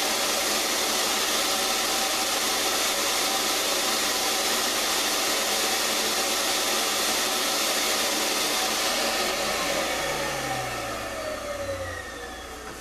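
Electric wood router running at full speed, then switched off about nine seconds in, its pitch falling as the bit spins down.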